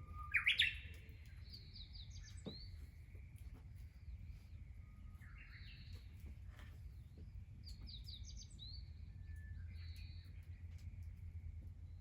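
Small birds chirping in short repeated phrases, the loudest just under a second in and more every few seconds, over a steady low rumble.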